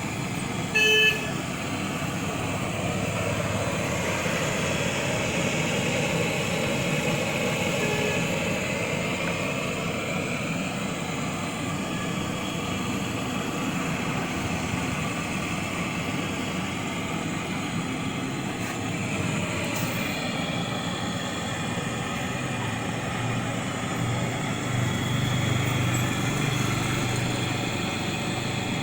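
Steady street traffic noise, with a short vehicle horn toot about a second in.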